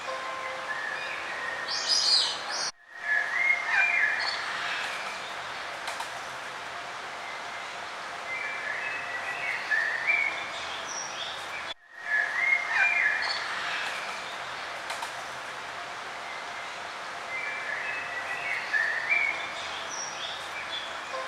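Several birds chirping and singing in short trills over a steady background hiss. The recording drops out to silence for a moment twice, and the same stretch of calls repeats about every nine seconds, as from a loop.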